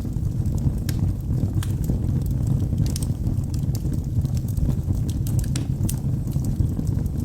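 Log fire burning in a fireplace: a steady low rumble of the flames, with sharp crackles and pops at irregular moments.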